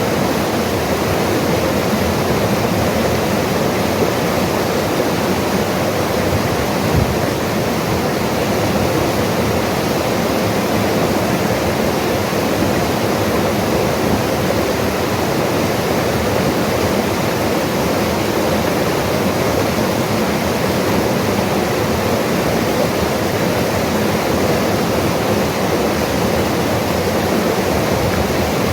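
Mountain river rushing: a steady, dense noise of fast-flowing water that holds level throughout.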